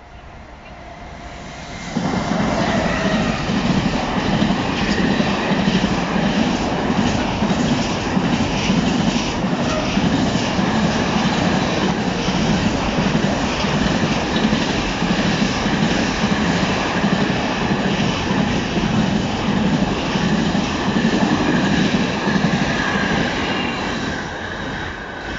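Intermodal freight train hauled by an Re 475 electric locomotive passing close by at speed. The train arrives suddenly about two seconds in, then a long, steady rush of wheels on rail goes on as the container and trailer wagons run past, easing off slightly near the end.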